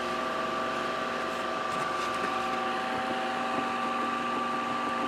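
Windmere DF-12 12-inch table fan running steadily on high: a motor hum with several held tones over the even rush of air from the blades.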